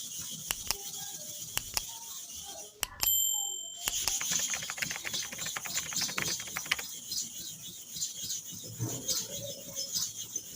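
Metal clipper blade rubbed against a flat sharpening surface, rasping and scraping with scattered clicks, and a quick run of rapid back-and-forth strokes from about four to seven seconds in. A brief ringing tone sounds about three seconds in.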